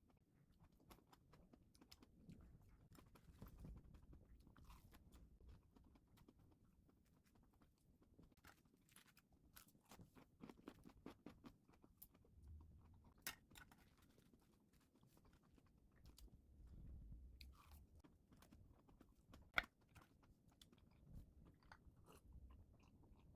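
Quiet, close-miked chewing and crunching of a salad of tomato, shrimp and imitation crab sticks, with irregular small clicks and crackles of biting. One sharp click about twenty seconds in stands out as the loudest sound.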